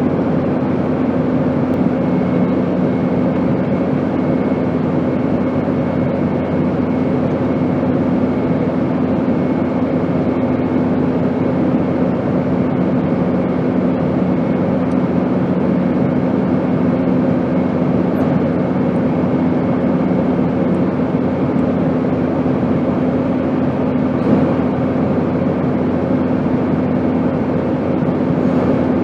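Airplane noise: a steady, even rush of air with a constant low hum beneath it, unchanging.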